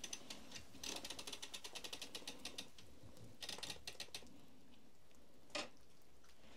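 Rapid mechanical clicking, like a ratchet, about eight clicks a second for over a second, then a second shorter run, and a single louder brief rustle or knock near the end.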